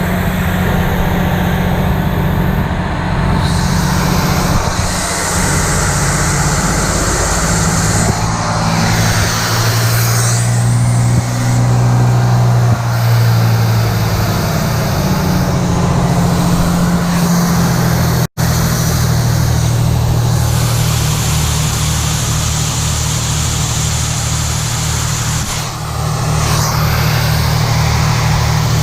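Detroit Diesel two-stroke engine of a 1980 Howe fire truck running, its pitch rising for a few seconds around the middle and then settling, over a steady hiss. The sound drops out for an instant a little past the middle.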